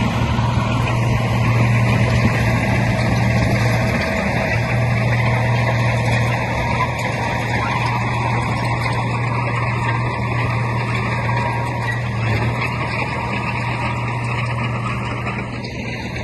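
Heavy diesel engine of earthmoving machinery, a bulldozer or a dump truck, running steadily under load with a continuous low drone.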